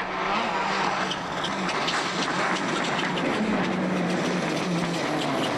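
Rally car's engine running hard at fairly steady high revs, briefly dipping about a second in, with a constant clatter of sharp ticks over it.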